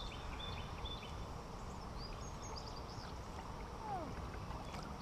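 Steady low rushing of water and open air around a kayak on a river. Small birds chirp briefly near the start and again midway.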